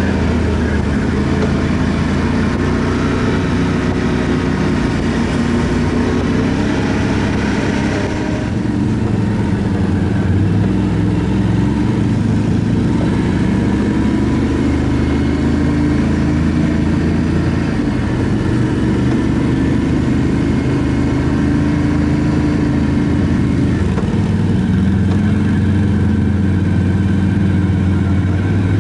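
ATV engine running while riding, its pitch rising and falling with changes of speed. A high hiss over the engine drops away about eight seconds in.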